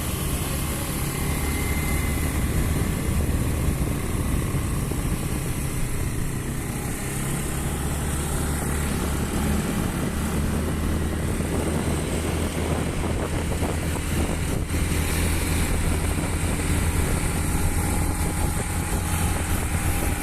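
Motorbike engine running steadily while riding, a constant low hum with a steady hiss of road and wind noise over it.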